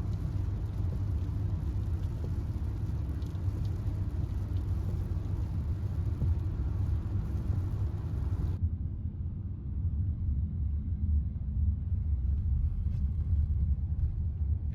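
Steady low rumble, with a faint hiss over it that cuts off suddenly about eight and a half seconds in while the rumble continues.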